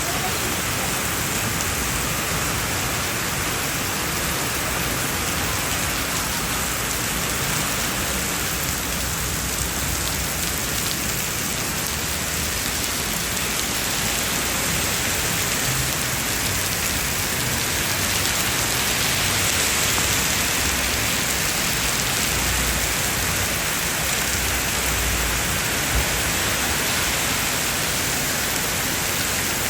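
Heavy rain falling steadily, a dense, even hiss, with a few low rumbles and one short knock late on.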